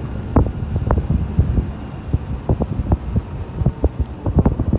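Irregular low thumps and rumble on the microphone, a dense run of short knocks at uneven spacing with no steady beat.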